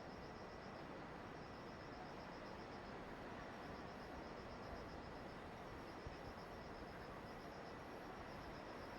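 Insects, crickets by their sound, chirping in rapid pulse trains, high-pitched and faint, over a steady hiss.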